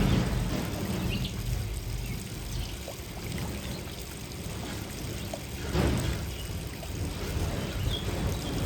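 Water splashing and trickling in a birdbath as small birds bathe, with a stronger splash about six seconds in, over a low steady rumble.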